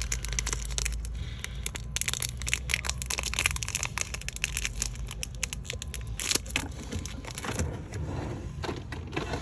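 Irregular crinkling and crackling of something handled close to the microphone, dense clicks with a low hum underneath.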